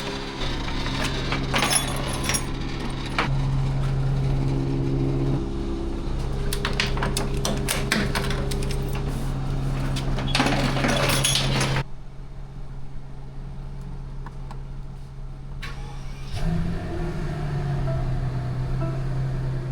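Truck engine running on the road with rattling and clinking over it. The engine note steps up and down, and the sound drops abruptly about twelve seconds in before the engine picks up again.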